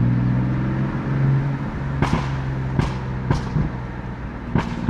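BMW F80 M3's twin-turbo S55 inline-six on its stock exhaust, running at steady, low cruising revs. A few short, sharp pops sound over the second half.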